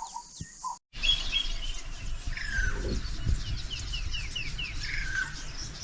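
Wild birds calling: a few short hooting notes, a brief break to silence about a second in, then a run of quick downward-slurred whistles over a low steady rumble.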